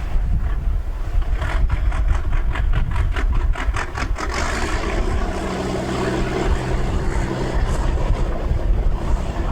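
An engine running with a steady hum over a low rumble, preceded by a rapid, even clatter of about five strokes a second that stops about four seconds in.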